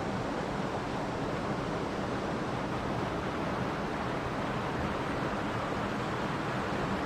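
Mountain stream flowing and rushing over rocks, a steady even wash of water noise.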